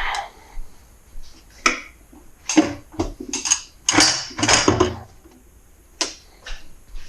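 Irregular clinks and knocks of hand tools and small hard parts being picked up and set down, with a denser run of clattering in the middle.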